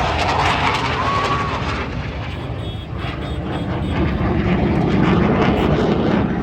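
Military aircraft flying past, a steady rushing engine noise that sags a little about halfway through and then swells again.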